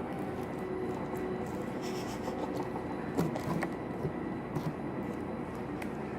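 Hands handling sticky slime: faint rubbing with a few light clicks, over a steady background hum.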